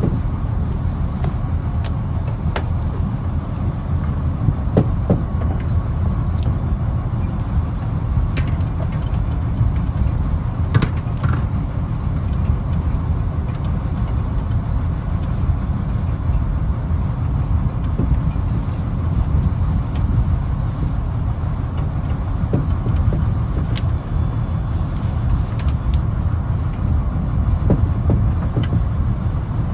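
Fishing trawler's diesel engine running steadily, a deep continuous rumble with a few short knocks on top.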